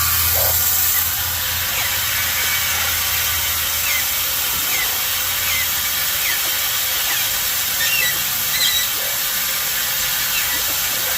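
Steady hiss of a garden hose spraying water, with parrots giving short falling chirps about once a second and a few higher calls near the end.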